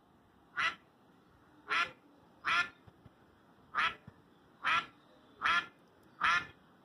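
A duck quacking: seven short quacks at uneven gaps of about a second.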